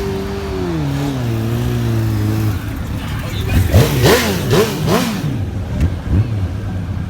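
Car engine revving: its pitch falls from a rev and settles into a steady low note. About three and a half seconds in comes a string of quick throttle blips, each rising and falling sharply.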